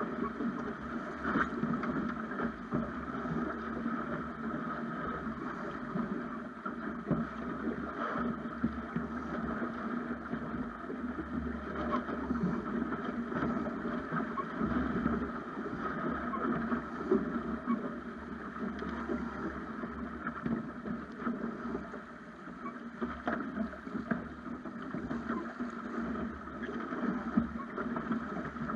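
Water rushing and splashing along the hull of a Snipe sailing dinghy under way, with wind buffeting the action camera's microphone. The sound is steady throughout, with many small irregular splashes.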